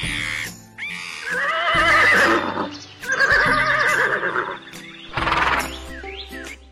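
Horse whinnying twice, each a long call with a shaking, wavering pitch, over light children's background music, with a short noisy burst near the end.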